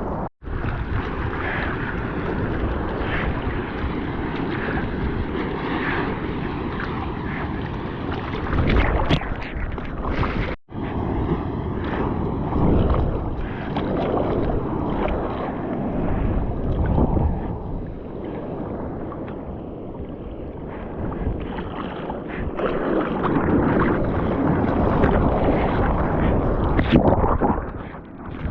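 Wind buffeting the microphone over the steady wash of ocean surf breaking on a beach. The sound cuts out briefly twice.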